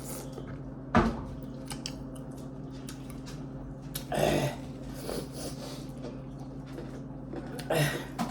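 Eating sounds of shrimp being chewed, with small wet clicks and smacks and a sharp knock about a second in, over a steady low hum.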